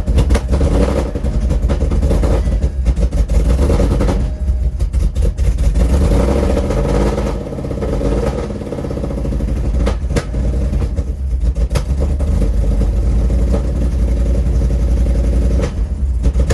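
Ford Mustang GT V8 with a ghost cam, headers and Corsa Sport exhaust running rough after a hard start, its note wavering and dipping about halfway through, with a few sharp pops. The exhaust clamps are not yet tight and the owner suspects a leak.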